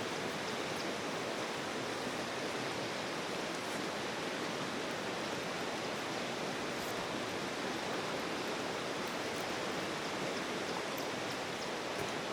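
Steady, even rush of water, with a few faint ticks high up.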